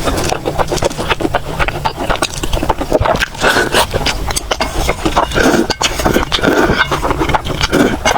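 Close-miked eating sounds: continuous chewing, with many quick, irregular wet clicks and smacks.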